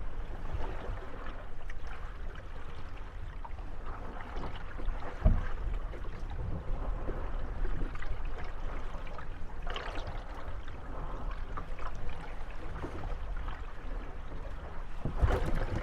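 Moored gondolas rocking on small waves: water lapping against the hulls, with wooden creaks and knocks as the boats rub and bump against each other. A sharp knock about five seconds in, and a cluster of knocks near the end.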